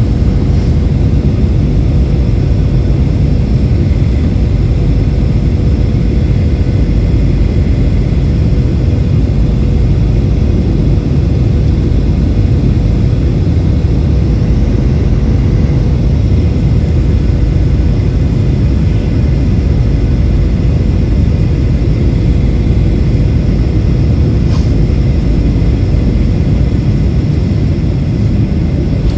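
Boeing 737 airliner cabin noise during landing: a loud, steady rumble of engines and airflow heard from inside the cabin, with a constant hum running through it.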